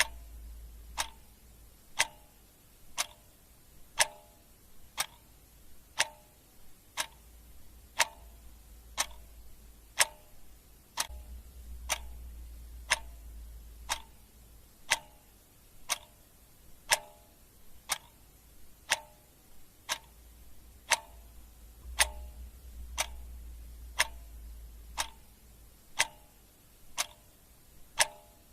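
Clock ticking steadily at one tick per second.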